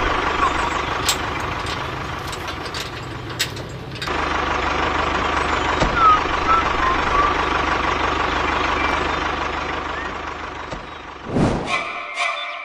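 A small motor running with steady mechanical noise over a low hum, broken by an abrupt cut about four seconds in. It fades out near the end, where background music with a clicking beat starts.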